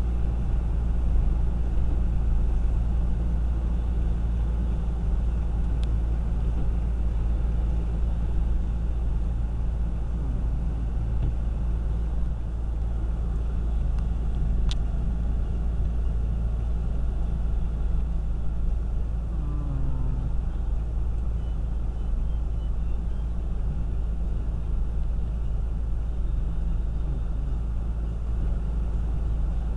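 Steady low rumble of a car heard from inside its cabin as it creeps along a snowy road.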